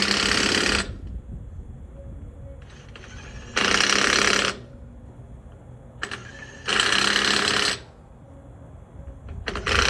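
Impact wrench hammering in short bursts of about a second, four times about three seconds apart, as it runs down and tightens the lug nuts on the LMTV truck's wheel.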